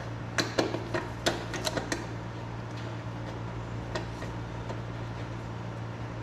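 Light metallic clicks and clinks of small metal parts being handled, several in the first two seconds and one more about four seconds in, over a steady low hum.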